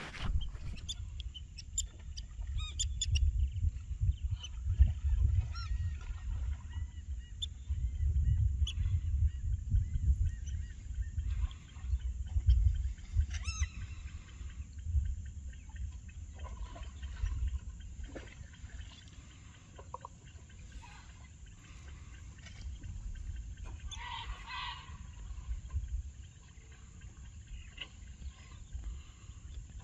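Wild birds calling over water, many short calls from several birds, with a louder cluster of calls about 24 seconds in, over a low rumble.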